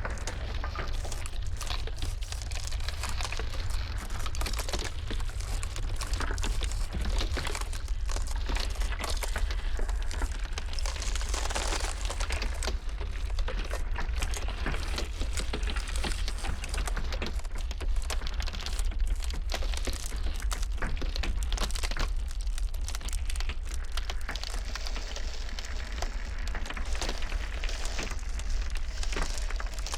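Iceberg ice cracking and crackling in a dense, continuous run of small sharp cracks, over a steady low rumble of blizzard wind.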